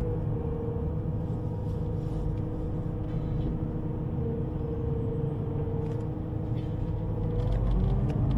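Underground train running, a steady low rumble with a held whining tone that begins to rise in pitch near the end.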